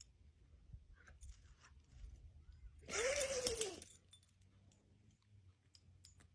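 A single short breathy vocal sound about three seconds in, rising then falling in pitch, over a faint low hum with a few light clicks.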